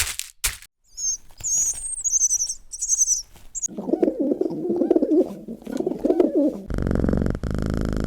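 A run of wild animal calls: a few sharp cracks at the very start, then high chirping bird calls. Next come lower warbling, cooing calls, and about two-thirds of the way in a loud, steady, pulsing rasp that sounds like a big animal's growl.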